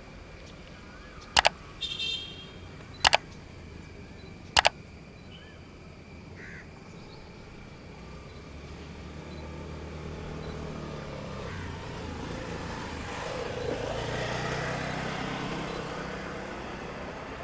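Twin WDG3A ALCO diesel locomotives approaching: a low engine rumble builds gradually from about halfway and is loudest near the end. Before it, three sharp double clicks and a short bird call.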